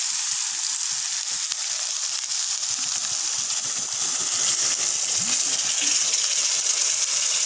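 Spiced onion-tomato masala frying and sizzling hard in a steel kadai as water is added to make the gravy: a steady, loud hiss that swells slightly in the second half.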